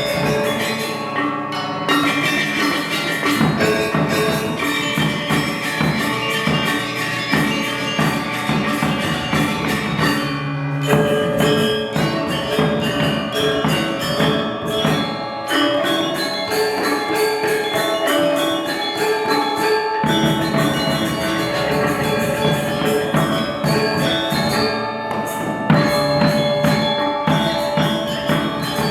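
Balinese gong gamelan playing: bronze metallophones and gongs struck in fast, dense patterns with drums beneath, a continuous ringing metallic texture.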